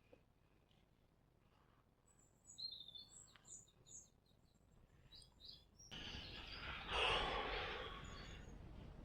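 A small bird chirping a few short, high notes. About two-thirds of the way in, a rushing noise starts suddenly, swells, then eases off and stays steady to the end.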